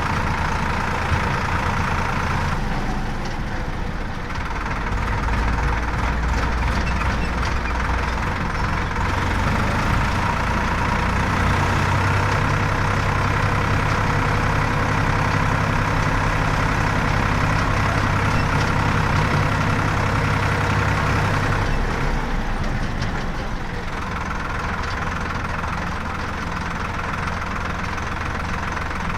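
Heavy diesel engine running. About halfway through it revs to a higher, steadier note for some ten seconds, then drops back to a lower run.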